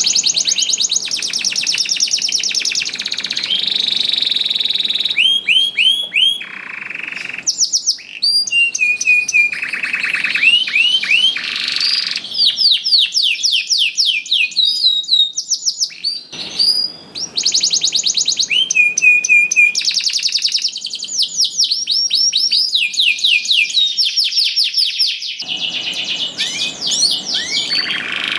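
Domestic canary singing a long, unbroken song: fast high trills and rolls alternating with runs of repeated sweeping notes, changing phrase every second or two.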